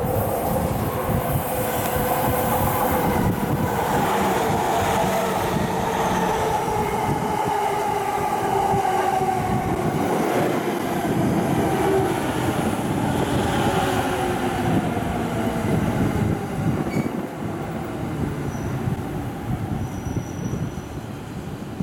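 Electric commuter train arriving and braking along the platform: its inverter motors whine in tones that slowly fall in pitch as it slows, over wheel and rail noise with some wheel squeal.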